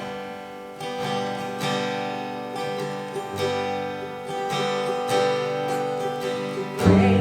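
Instrumental introduction to a worship song: strummed acoustic guitar chords, struck about twice a second, leading up to the first sung line.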